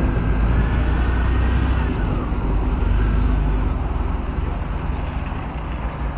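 A mid-engine car's engine running just after being started, a steady low rumble that eases off slightly in the second half.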